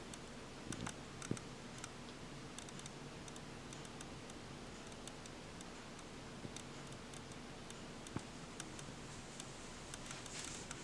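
Faint, scattered light clicks and ticks, a few a second at irregular spacing, over a low steady hum in a small room.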